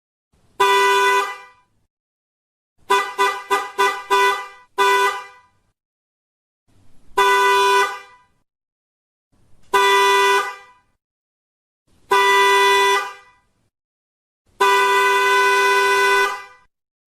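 Car horn honking in a series of blasts: a short honk, then a quick run of five or six short toots, then several honks of about a second each, ending with a longer blast of about two seconds.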